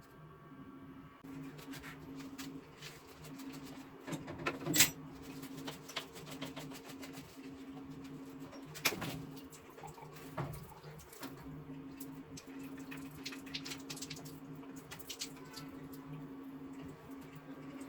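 Scattered clicks and knocks of hands-on work, with a louder sharp knock about five seconds in and another about nine seconds in, over a steady low hum.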